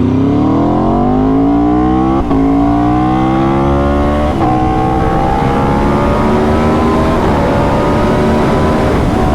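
High-revving engine accelerating hard, its pitch climbing steadily, with two quick upshifts about two and four seconds in before it pulls on through the next gear.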